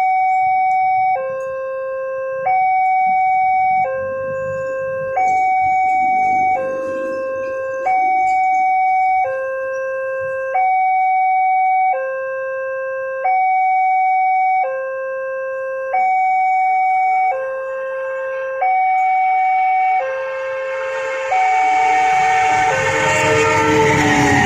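Railway level-crossing warning alarm sounding a two-tone electronic signal, high and low tones alternating about every second and a half. About twenty seconds in, the rising rush and rumble of an approaching train grows loud over it.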